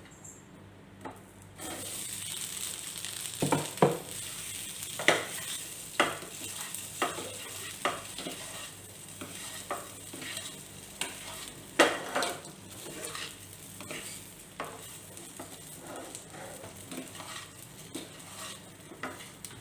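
Steamed rice-flour dumplings sizzling in hot oil in a kadai while a spatula stirs and tosses them, with repeated scrapes and knocks against the pan. The sizzle starts about two seconds in.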